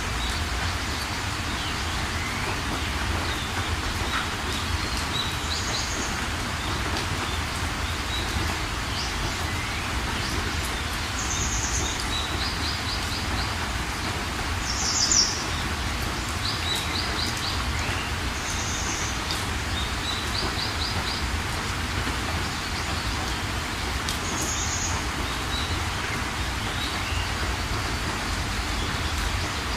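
Steady rain with small birds chirping over it: short high calls every few seconds, some as quick runs of four or five notes, the loudest about halfway through. A low rumble runs underneath.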